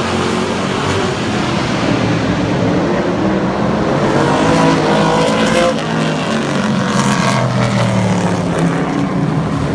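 Super trucks racing on a track, several engines running hard at once. About halfway through, one engine's pitch climbs and then drops as a truck goes by.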